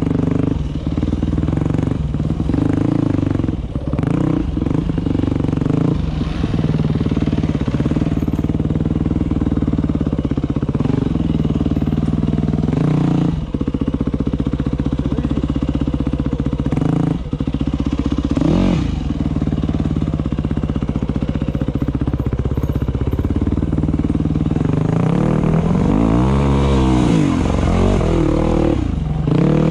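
Dirt bike engine running along a bush trail, the revs going up and down with the throttle. There is a brief rise and fall in revs midway and a longer swell of revs near the end.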